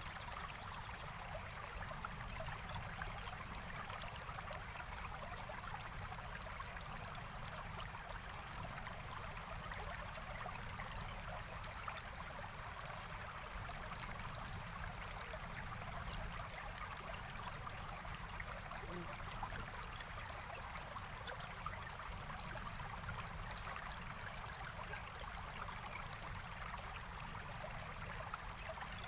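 Forest stream flowing steadily, a continuous rush and trickle of water, with faint scattered crackling ticks over it.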